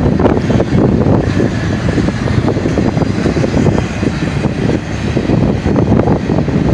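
Double-stack container train rolling past, a steady rumble of steel wheels on rail with rapid clacking.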